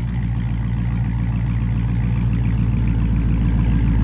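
The 6.4-litre HEMI V8 of a 392 Daytona Charger idling just after a cold start through a straight-piped exhaust (mid mufflers and resonators deleted, only the cats kept). The idle is steady and grows a little louder toward the end.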